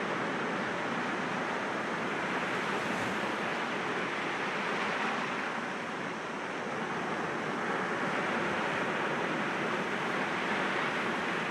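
Sea waves breaking against rocks: a continuous rush of surf that eases a little about halfway through and then swells again.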